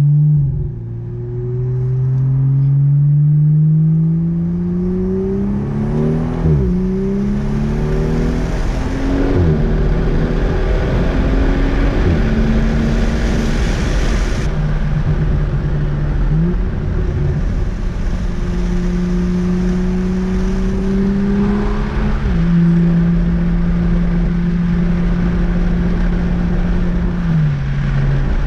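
2015 BMW M235i's N55 turbocharged straight-six through a Fabspeed muffler bypass exhaust, accelerating through the gears with the pitch climbing and dropping sharply at each shift, then running at a steadier pitch with a few quick changes near the end.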